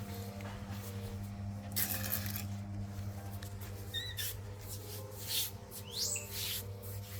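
Baby monkey giving short high squeaks, a pair about four seconds in and a rising one near six seconds, among rustling and handling noises over a steady low hum.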